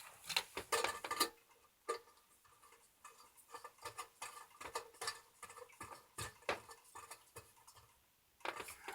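Irregular small clicks and taps of coaxial cable connectors being handled and fitted together.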